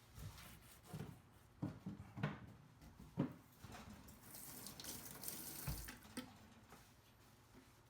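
Water running from a kitchen tap into a sink, with several sharp knocks and a low thump from handling in the sink.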